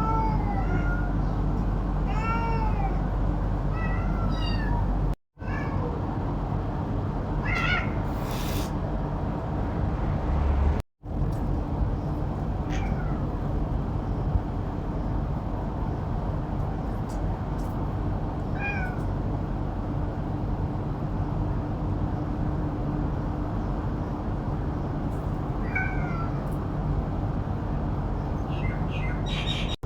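Cats meowing: short, high, rising-and-falling meows at irregular intervals over a steady background hiss and low hum. The sound cuts out twice, briefly.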